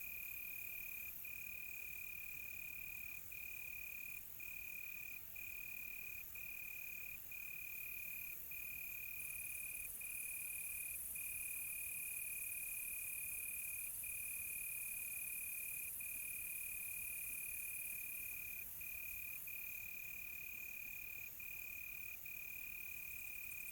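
Crickets chirping in a continuous high trill with short breaks about once a second, over a fainter high-pitched insect hiss that swells midway.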